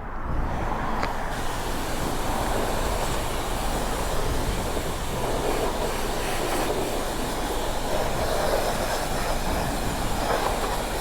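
Self-serve car wash pressure wand spraying the bike: a steady hissing rush of spray that starts abruptly and turns brighter about a second in.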